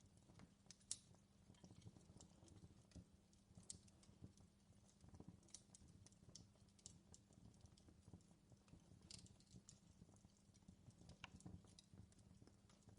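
Wood fire crackling in a fireplace: irregular sharp snaps and pops over a soft, steady low rumble.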